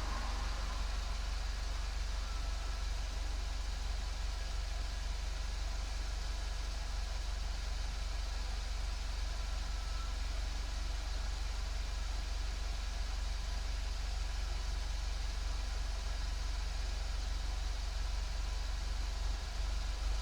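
Volkswagen Golf 7 GTI's turbocharged 2.0-litre four-cylinder running steadily through a Cox aftermarket muffler and chamber, picked up by a microphone outside the car: a constant low drone with an even hiss over it.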